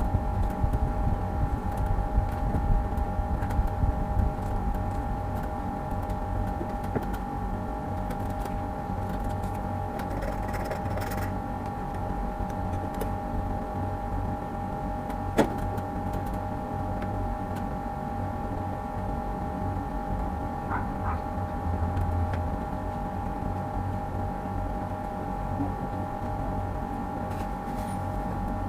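A machine running steadily with a constant humming tone over a low rumble, and a single sharp click about halfway through.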